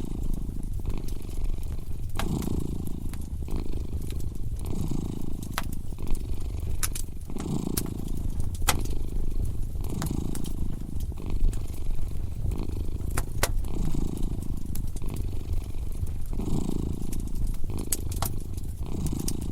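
A cat purring steadily in a low rumble that swells and eases every two seconds or so with its breathing, over a wood fire crackling with scattered sharp pops.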